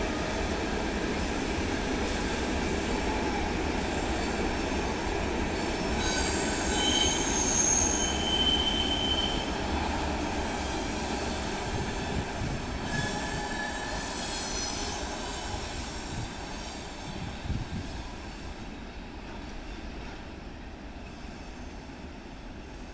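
A train rolling past on the rails, its wheels squealing in high, steady tones twice: for a few seconds about a quarter of the way in, then briefly just after the middle. The rolling noise then fades away.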